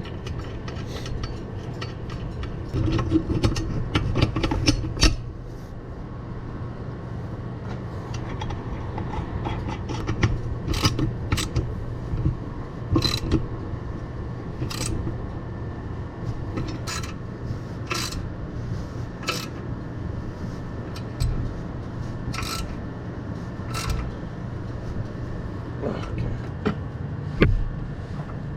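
Hand tools clinking and scraping on metal as an exhaust clamp is fitted and tightened, with sharp clicks every second or two over a steady low hum.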